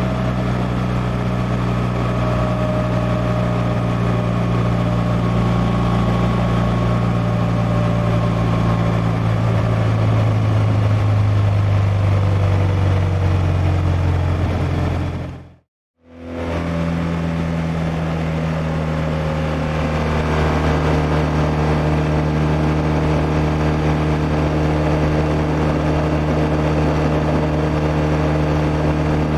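BMW R1200R's liquid-cooled 1170 cc boxer twin running steadily at riding speed, mixed with wind and road noise. About halfway through it fades out to silence for a moment, then comes back at a steady, slightly different engine note.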